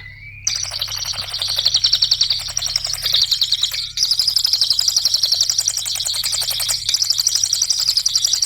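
A cililin songbird singing a fast, unbroken chattering trill of many high notes a second, starting about half a second in, with a couple of brief breaks. A faint steady low hum lies underneath.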